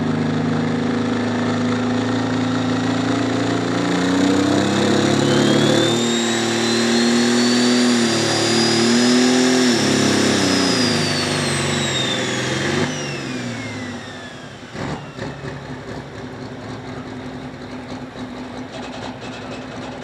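Turbocharged diesel pulling tractor at full throttle under load, its engine note climbing with a high turbo whine rising over it. About 13 seconds in the throttle is cut: the engine drops away and the turbo whine winds down, leaving a quieter idle and background noise.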